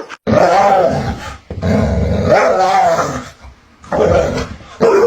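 A dog vocalizing in a run of about four long, drawn-out calls that waver up and down in pitch, with short pauses between them.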